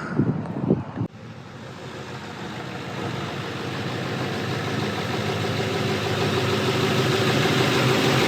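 An engine idling steadily, cutting in suddenly about a second in and growing steadily louder.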